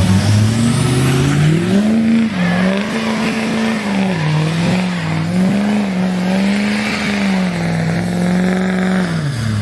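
Car engine revved up and held at high revs for several seconds, its pitch wavering up and down, then dropping off near the end, over a steady hiss.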